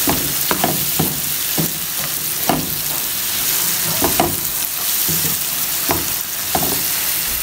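Diced potatoes and vegetables sizzling in oil in a pan, with a wooden spatula scraping and knocking against the pan in irregular strokes as the mixture is stirred.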